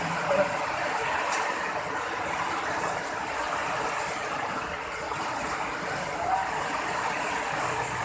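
Heavy rain falling in a windstorm: a steady, even hiss.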